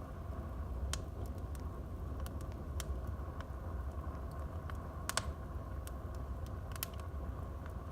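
Wood fire burning in a fireplace: a steady low rumble and hiss, with irregular sharp crackles and pops as the wood snaps, the loudest a little past the middle.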